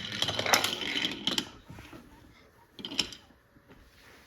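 Wooden toy train car clattering against wooden track: a dense run of clicks and rattles for about a second and a half, then one more sharp knock about three seconds in.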